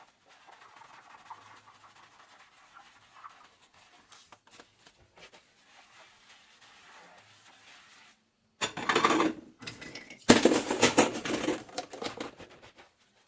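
Dishwashing at a kitchen sink: quiet rubbing and scraping, then after a brief cut, louder noisy washing sounds in two spells starting about nine seconds in.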